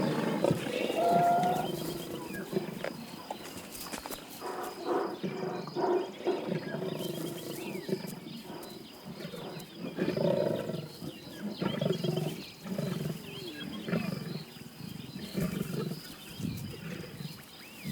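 Lions growling and snarling in repeated rough bursts while feeding on a freshly killed buffalo.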